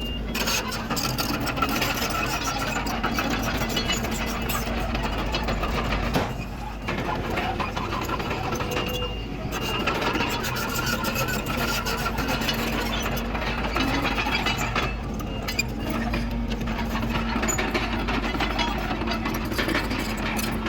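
Komatsu D31PX bulldozer's diesel engine running steadily under work, with clanking throughout.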